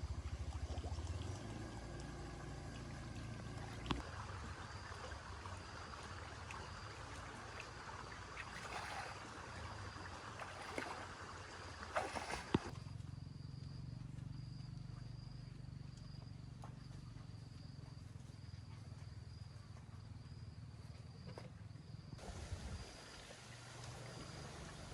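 Outdoor ambience: a steady high insect trill, over a low hum, with a few scattered clicks and knocks. The background changes abruptly twice.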